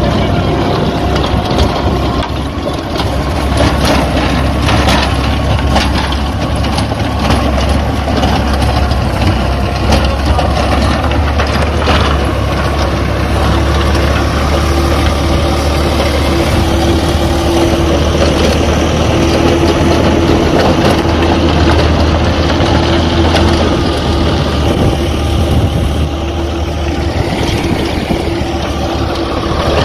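Tractor engine running steadily while ploughing dry ground, with clattering and knocks over the low drone and a steadier higher tone joining about halfway through.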